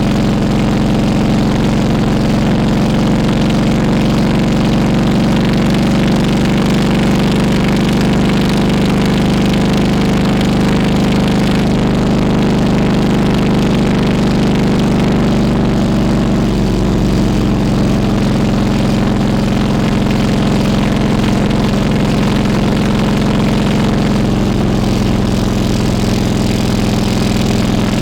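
Harley-Davidson Road King Classic's V-twin engine running steadily, its pitch dipping slightly about two thirds of the way through.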